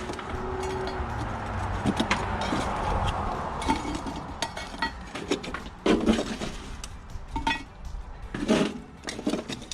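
Scattered metal clinks, knocks and scrapes of hot coals being moved around a cast-iron camp oven at a campfire. A steady rushing noise in the first few seconds fades away.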